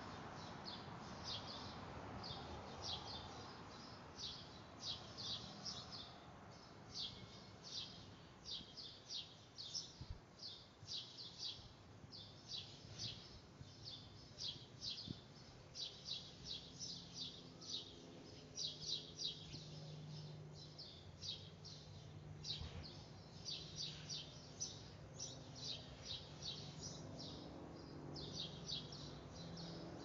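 Small birds chirping, in quick clusters of high chirps repeating about once a second.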